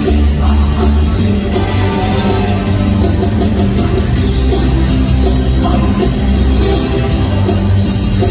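Live praise band playing an upbeat rock-style worship song, with drums and guitar under singing.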